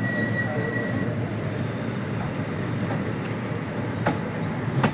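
Indian Railways passenger train rolling slowly along a station platform, heard from the open coach door: a steady low rumble of the coaches, a brief high squeal in the first second, and two sharp clicks near the end.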